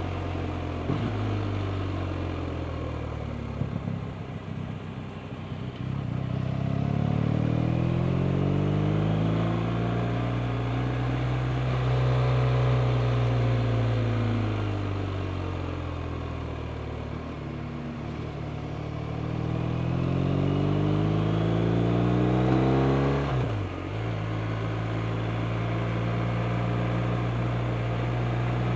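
BMW R 1250 RT motorcycle's boxer twin engine under way. Its pitch climbs under acceleration, sinks back as the throttle eases, and climbs again. It drops sharply about four-fifths of the way through, then runs at a steady speed.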